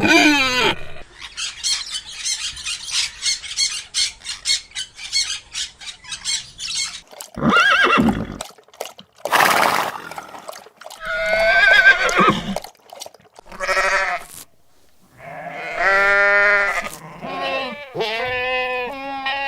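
Farm animals calling: a string of separate pitched cries and bleat-like calls, one after another, with a run of quick, even clicking pulses in the first few seconds.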